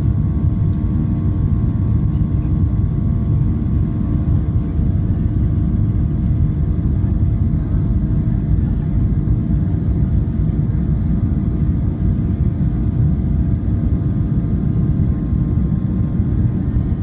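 Steady low rumble inside the cabin of a Boeing 737-700 with its CFM56-7B engines running, a few steady hum tones riding over it.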